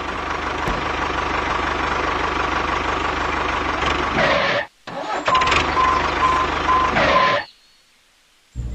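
Small motor or engine sound of a DIY mini tractor running steadily, with a short break a little past halfway. The second stretch carries a repeating beep. The sound cuts off about a second before the end.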